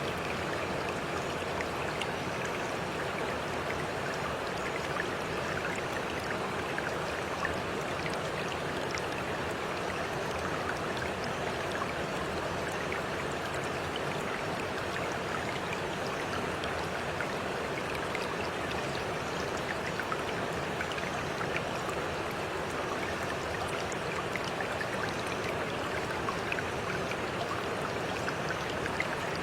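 Running water with a steady, even rush and scattered faint ticks, unchanging throughout.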